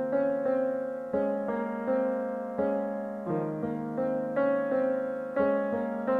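Background piano music: an unhurried run of struck notes and chords, each one fading before the next.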